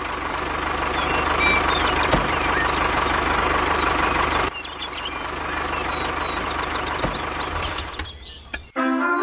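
A motor vehicle's engine running steadily with a low rumble. There is a brief break about halfway and a short hiss near the end.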